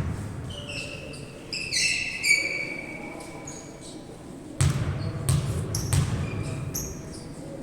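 Sport shoes squeaking in short high squeals on a hard floor, then a ball bouncing hard three times.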